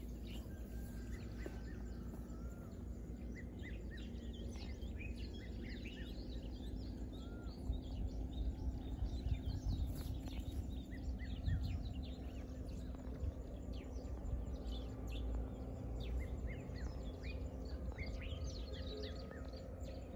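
Wild birds chirping and calling: many short, quick chirps and sweeps, some overlapping, over a low outdoor rumble and a faint steady hum.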